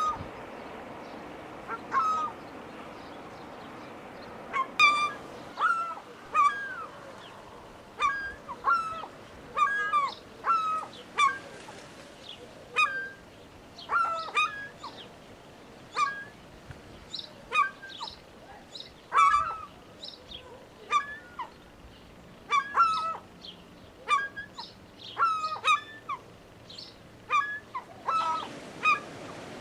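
Gulls calling, a long run of short, harsh calls repeated about once or twice a second with brief gaps.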